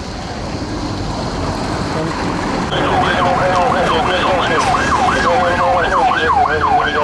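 Emergency vehicle siren starting up about three seconds in, sweeping rapidly up and down in pitch at about three sweeps a second, over a steady background rush of noise.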